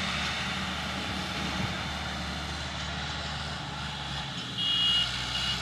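Tractor engine running steadily while ploughing a field, a low even drone. Near the end a brief high steady tone of about half a second sounds over it.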